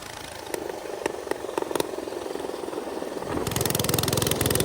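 Minibike's small engine running, with scattered sharp knocks and clicks in the first few seconds. About three and a half seconds in, the engine gets louder and its rapid firing pulses come to the fore.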